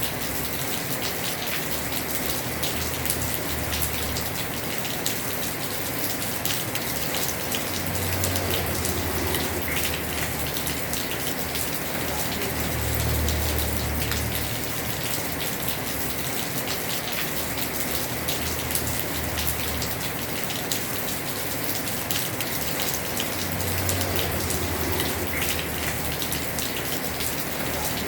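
Heavy rain drumming on a house roof, a dense, steady patter of drops, with a low rumble that swells and fades several times.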